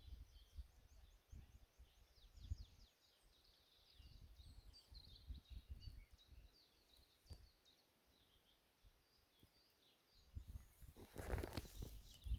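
Faint, high-pitched twittering of small birds, in short chirps throughout, over intermittent low rumbles. A louder noisy rush comes near the end.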